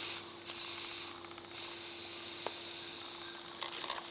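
Air hissing out of a motorcycle's front tyre valve as it is let down: three bursts, the last the longest, fading away near the end as the pressure drops.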